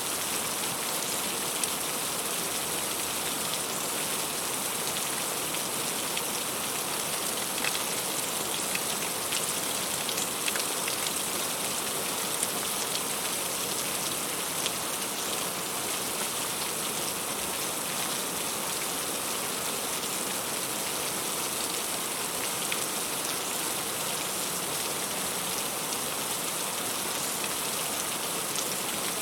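Heavy rain falling steadily, with scattered sharper ticks of individual drops striking a surface.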